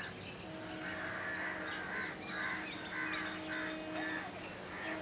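Birds calling repeatedly, short harsh calls about two a second, over a steady low hum.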